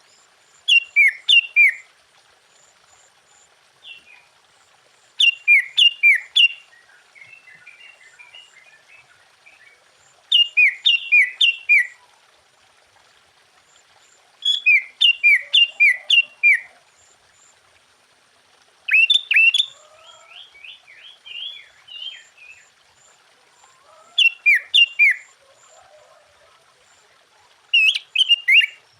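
Sooty-headed bulbul (kutilang) singing in loud phrases about every four to five seconds, each a quick run of four or five falling whistled notes. Softer chattering twitters come between some phrases.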